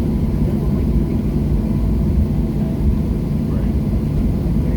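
Steady low rumble of a Boeing 737-700's CFM56-7B jet engines at idle, heard inside the cabin, with a faint steady whine above it.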